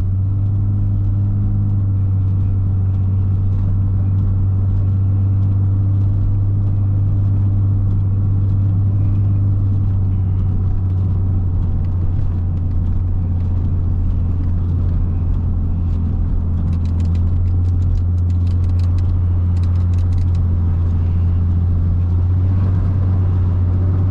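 Lexus IS250's V6 engine and drivetrain running at a steady pace, a constant low drone heard from inside the cabin with no revving.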